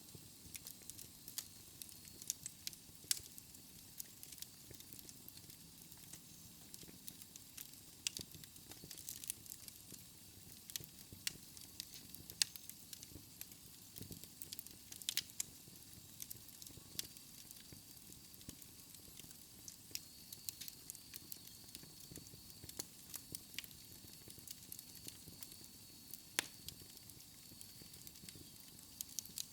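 Wood fire burning in a fireplace: irregular sharp crackles and pops over a soft low hiss.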